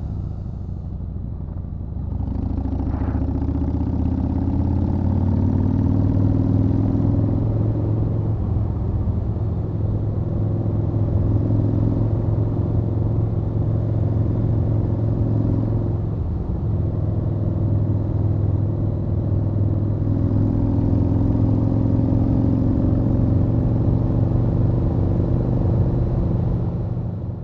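Yamaha Warrior 1700's air-cooled V-twin engine running as the motorcycle cruises. The throttle opens about two seconds in and the engine pulls up through the revs, steadies, then pulls again later on. The sound begins to fade right at the end.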